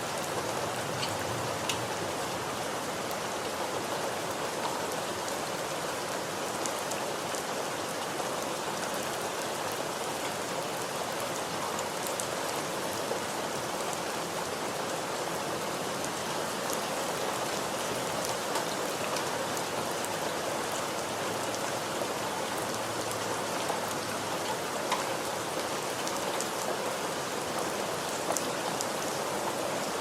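Steady rain falling, an even hiss with scattered sharper ticks of single drops hitting a surface.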